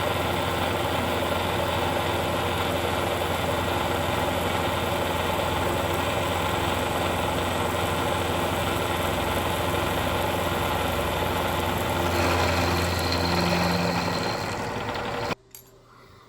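Milling machine running with an end mill cutting through a steel plate: a steady mechanical run with a low hum. The sound changes slightly about 12 seconds in and cuts off abruptly near the end.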